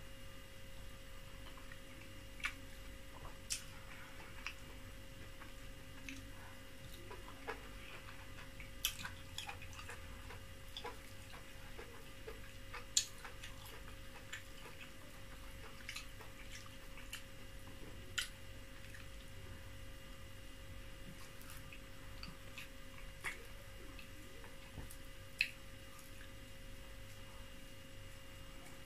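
Mouth sounds of chewing soft oatmeal fufu with soup: irregular wet clicks and smacks, a few every couple of seconds, over a faint steady hum.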